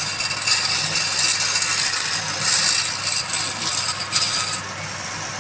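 Woodturning lathe with a tool cutting into the spinning wood: a rough, hissing scrape that swells and eases in uneven bursts, dropping somewhat near the end.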